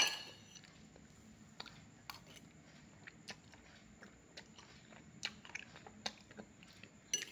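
A person chewing a mouthful of noodles close to the microphone: faint, scattered small wet clicks and smacks of the mouth. A single sharp click comes at the very start.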